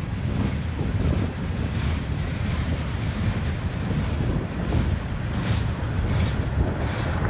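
Freight cars (gondolas and a covered hopper) rolling past on the rails: a steady low rumble of wheels on track, with wind buffeting the microphone.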